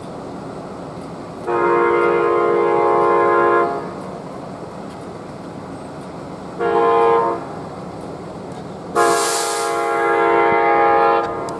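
Locomotive air horn with several chime notes sounding three blasts: a long one, a short one, then another long one, over steady background noise. A burst of hiss comes with the start of the third blast.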